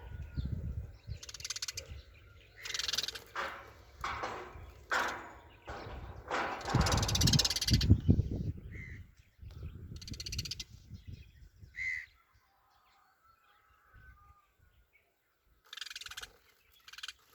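A bird giving a series of harsh, raspy calls at irregular intervals, the loudest and longest about 7 to 8 seconds in, over a low rumble in the first half; a couple of short higher chirps follow, and the calls are sparse near the end.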